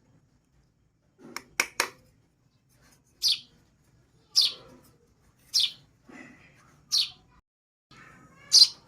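Baby birds chirping in a series of short, high chirps. First comes a quick cluster of three, then single chirps about once every second and a half, each dropping slightly in pitch.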